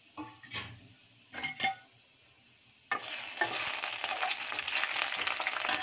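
A few light metal clinks, then, about three seconds in, chopped coconut pieces start sizzling sharply as they fry and are stirred in hot ghee in a stainless-steel kadai.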